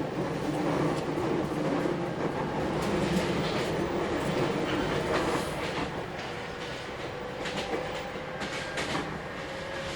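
JR Kyushu 811 series electric train running, heard from inside the passenger car: a steady rumble and hiss with scattered clicks of the wheels over rail joints. A faint whine rises slowly in pitch through the second half.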